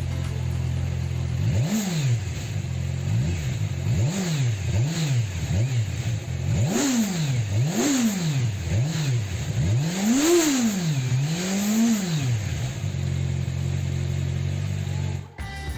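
Kawasaki Ninja 1000 SX inline-four engine idling, then revved in a series of about ten quick throttle blips, each rising and falling in pitch, before settling back to a steady idle.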